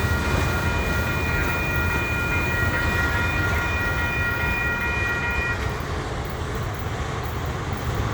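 Short freight train rolling past with a steady low rumble of wheels on rail. Several high, thin steady tones ring over it and stop about two-thirds of the way through.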